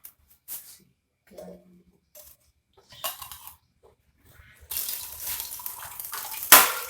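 Light scattered clicks and taps, then water starts running with a steady splashing hiss about five seconds in, with one sharp loud knock just before the end.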